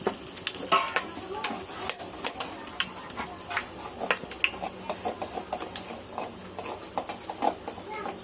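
Food sizzling in hot oil in a pan while a spatula stirs and scrapes against the pan, with many irregular clicks and scrapes over a steady hiss.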